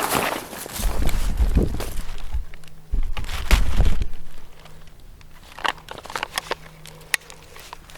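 Close rustling and crackling in dry leaves, with heavy low bumps on the microphone, in two bursts during the first half; then scattered faint crackles and clicks.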